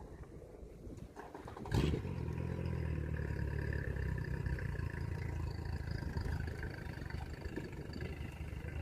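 A knock about two seconds in, then a motor engine running steadily with a low hum.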